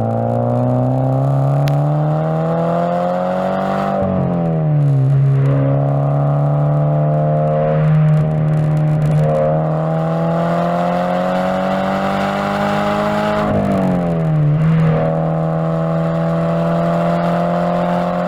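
Toyota GT86's 2.0-litre flat-four engine and exhaust accelerating hard, picked up by a lavalier mic taped near the exhaust. The pitch climbs steadily, then falls sharply twice, about four seconds in and again near fourteen seconds, as on upshifts, and holds fairly steady near the end.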